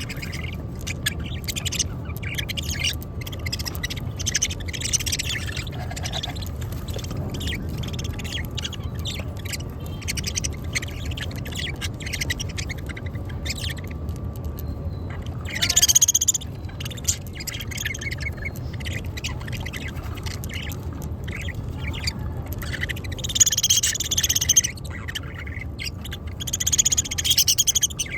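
A flock of budgerigars chattering in short, quick chirps and clicks, with louder bursts of chirping about halfway through and twice near the end.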